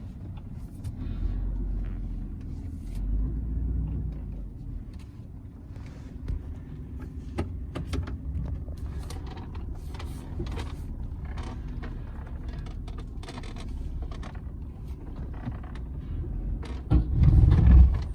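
Work truck's engine running at low speed, heard from inside the cab while the truck reverses and manoeuvres slowly, with scattered small clicks and knocks. A louder low rumbling thump comes near the end.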